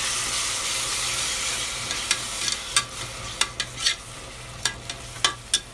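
Masala of onion, tomato and curd sizzling in an aluminium pressure cooker while a metal spoon stirs it. The sizzle thins out after about two seconds, and the spoon then knocks and scrapes against the pot's side in a run of sharp clicks.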